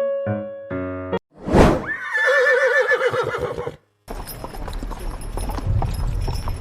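A horse whinnying, one shaky, wavering call lasting about two seconds, preceded by a short swoosh. Keyboard music ends about a second in, and after the whinny comes a stretch of outdoor farmyard noise with low rumble and small clicks.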